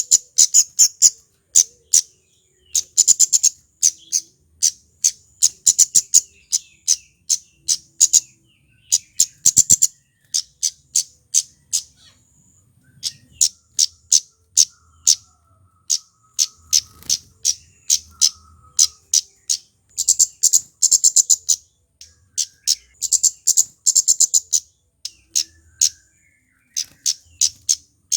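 Male kemade flowerpecker calling: sharp, high, very short 'cit' ticks in quick runs and dense clusters, with brief pauses between the runs.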